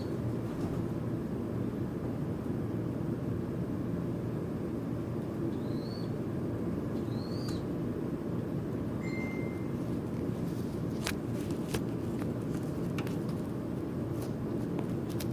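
A few short, rising bird chirps over a steady low rumble, then a brief whistled note about nine seconds in. In the last few seconds, a scatter of sharp taps or clicks.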